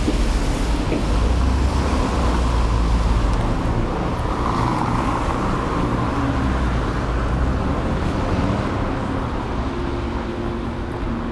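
Street traffic: motor vehicles running past with a steady low rumble and tyre hiss.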